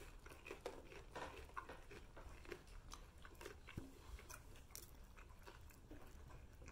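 Faint chewing with small crunches and clicks of a person eating.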